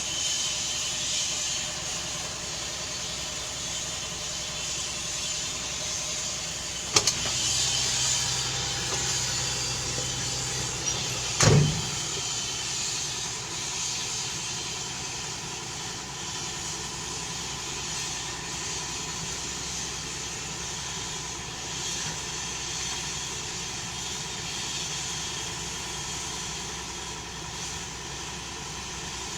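Helicopter engine running steadily with a high hissing whine. A sharp click comes about seven seconds in, and a louder knock about four seconds later.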